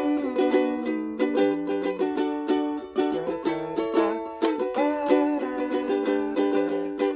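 Ukulele strummed in a steady, quick rhythm of strokes, moving through several chord changes.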